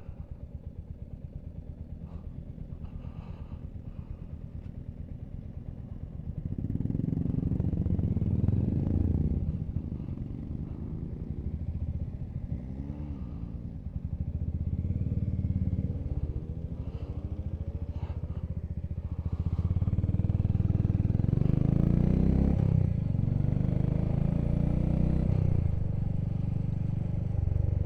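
Motorcycle engine running at a steady low speed, then growing louder about six seconds in and accelerating, its pitch rising and dropping back repeatedly as it is taken up through the gears.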